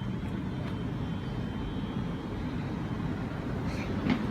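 Steady low vehicle rumble, slowly growing a little louder.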